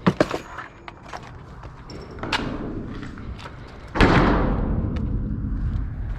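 Knocks and thuds of things being moved about in a dumpster, with a loud crash about four seconds in that dies away over a second or two.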